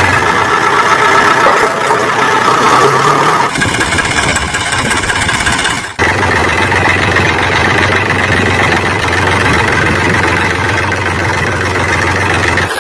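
Heavy vehicle engine running steadily, with the sound changing abruptly about 3.5 and 6 seconds in.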